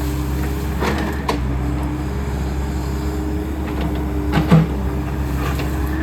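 Takeuchi excavator's diesel engine running steadily as it rakes up brush and felled trees, with a few sharp knocks and snaps, the loudest about four and a half seconds in.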